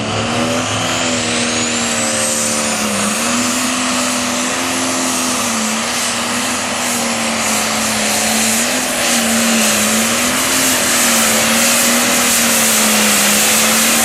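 Super stock pulling tractor's turbocharged diesel engine held at full throttle during a pull, a steady loud drone. Its pitch dips briefly about three seconds in, and a high whine rises over the first two seconds.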